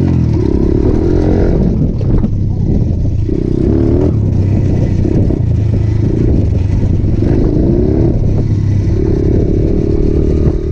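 Small 125cc motorcycle engine running while ridden, revving up and easing off several times so its pitch climbs and drops.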